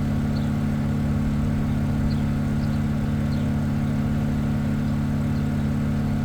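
Steady low hum of an engine or motor running at a constant idle, with a few faint high chirps over it.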